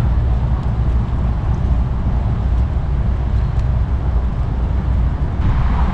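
Wind buffeting the microphone: a steady, loud low rumble with an even hiss over it.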